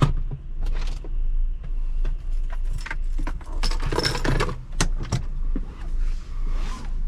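A bunch of keys jangling and clicking in irregular bursts, busiest about midway, over a low steady hum.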